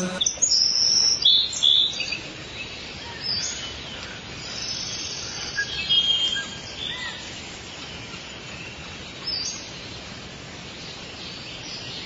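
Birds chirping: a quick run of short, high chirps in the first two seconds, then scattered chirps and brief whistled calls over a steady hiss.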